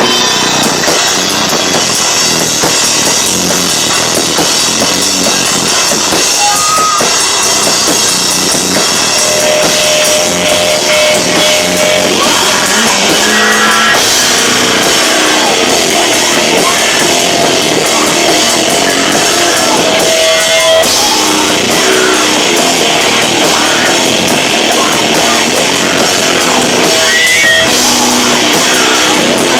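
A live rock band with a drum kit playing loud, recorded on a camcorder microphone that is overloaded and distorting at the volume.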